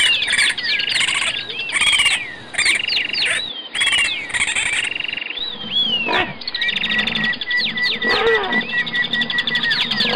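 Raccoon chittering and squealing in quick high trills and squeaky glides. About six seconds in, this changes to a different animal's calls with a held high note and a low rumble.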